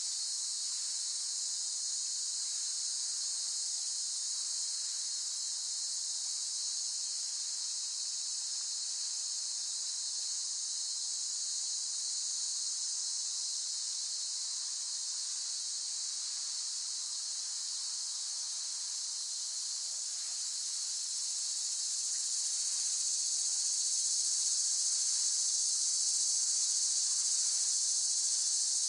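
Cicadas singing: a continuous high-pitched buzzing drone without breaks, swelling slightly louder about two-thirds of the way through.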